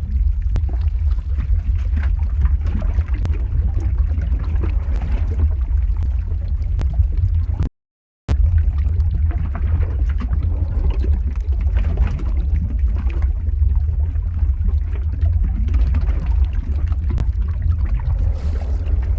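Lava flow ambience sound effect: a steady deep rumble overlaid with irregular crackling and bubbling. It drops out to silence for about half a second in the middle.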